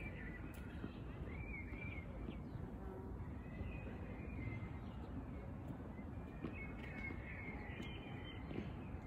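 Birds calling in short, scattered chirps over a steady low outdoor rumble, with a few faint knocks.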